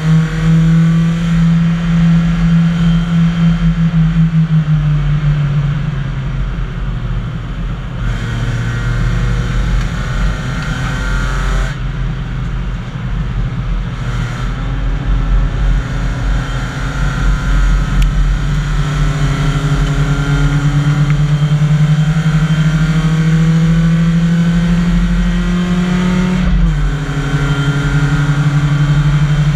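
BMW 318i race car's four-cylinder engine, heard from inside the cabin, running hard on track. Its note falls and stays low while the car goes through a corner, then climbs steadily under acceleration until it drops suddenly near the end at an upshift, and climbs again.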